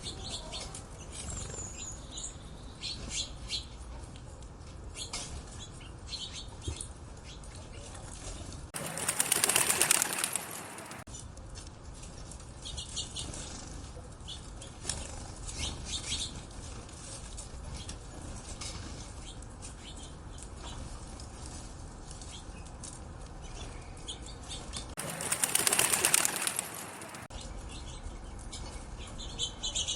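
Small birds chirping throughout, with two loud bursts of wing flapping lasting about two seconds each, about nine and twenty-five seconds in.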